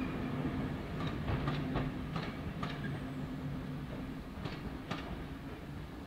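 A train's wheels rolling past and clicking over rail joints in irregular pairs, the sound slowly fading as the train draws away.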